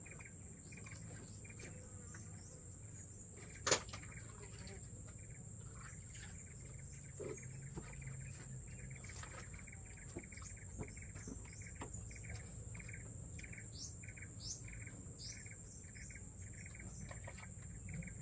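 Forest ambience: insects shrilling steadily at a high pitch, with a steady series of short repeated calls and a few quick rising bird whistles near the end. A single sharp click about four seconds in.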